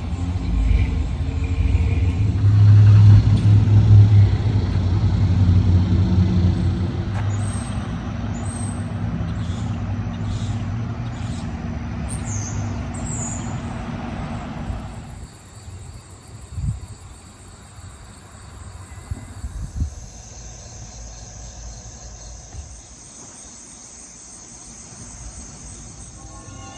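A motor vehicle engine running close by, loudest a few seconds in, then fading out sharply about halfway through. Afterwards there is quieter outdoor background with a steady high-pitched hum and a couple of brief thumps.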